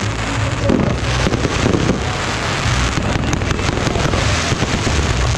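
Fireworks going off continuously: a dense crackling like heavy rain, with many sharp pops, over a steady low rumble.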